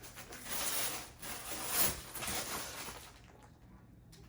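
Rustling and scraping of packaging being handled, loudest just before two seconds in, then dying down.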